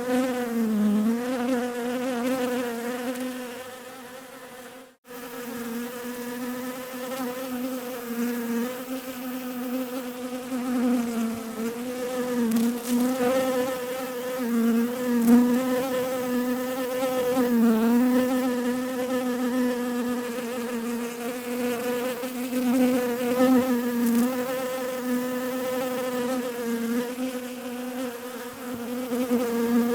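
Bees buzzing in a steady drone whose pitch wavers and dips now and then. It fades about three seconds in and cuts out briefly about five seconds in, then resumes.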